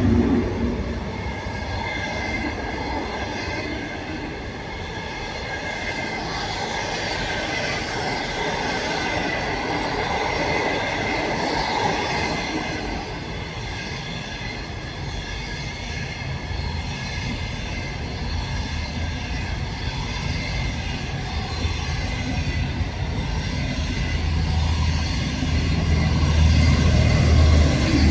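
Passenger train's coaches rolling past, wheels rumbling on the rails with a thin, steady high squeal. It grows louder with a deeper rumble near the end as the last coaches go by.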